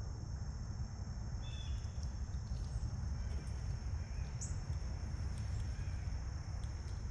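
Outdoor ambience: a steady high-pitched insect drone over a low rumble, with a few short bird chirps, one about a second and a half in and a quick rising one about four and a half seconds in.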